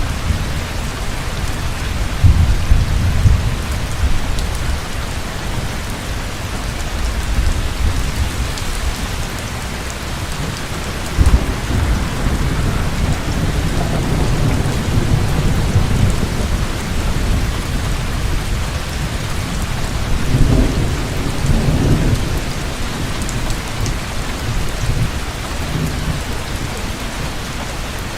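Heavy rain falling steadily, with rolling thunder rumbling low about two seconds in. A sharper clap comes about eleven seconds in and rolls on for several seconds, and another rumble follows around twenty seconds in.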